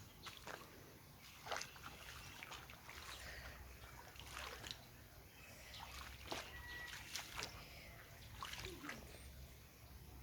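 Water trickling and splashing onto plants as they are watered, in faint, irregular splashes.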